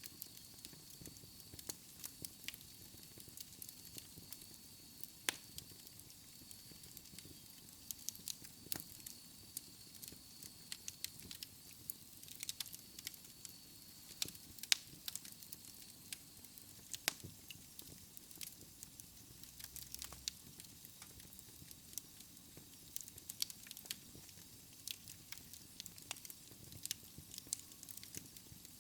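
Wood fire in a fireplace crackling, with irregular sharp pops and snaps every fraction of a second to a second over a soft steady hiss. A faint thin high whistle runs through about the first half.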